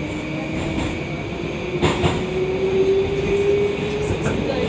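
Moscow Metro 'Oka' train running in the tunnel, heard from inside the car: steady rumble of wheels on rail with the traction motors' whine rising slowly in pitch as it gathers speed. A sharp clack about two seconds in and a lighter one near the end from the wheels over the track.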